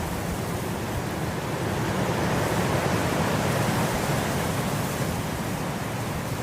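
Wind blowing through grass, a steady rushing noise that swells into a gust about two seconds in and eases off again.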